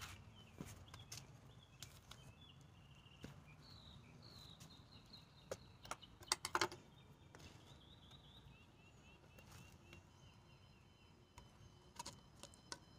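Faint birdsong: runs of short, repeated high chirps. Scattered light clicks and knocks cut through it, loudest in a quick cluster about six and a half seconds in.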